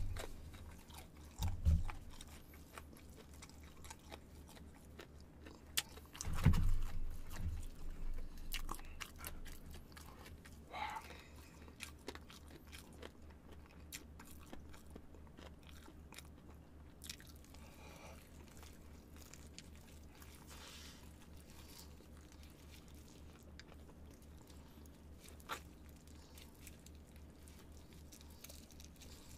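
Close-up crunching and chewing of crispy fried chicken, with a few louder low thumps about two seconds and six seconds in.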